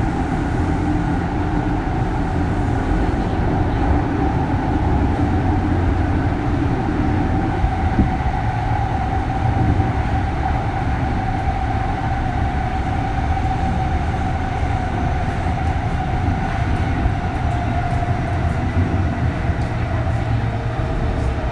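Interior running sound of a Kintetsu 3200 series train with its early Mitsubishi GTO VVVF inverter: a steady whine over the low rumble of wheels on rail. A second, lower tone joins near the end.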